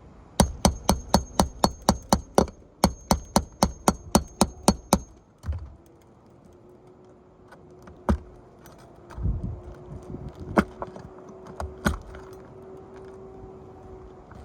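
Nails being driven during a roof shingle repair: a fast, even run of sharp strikes, about four a second for some four seconds, then a few scattered knocks.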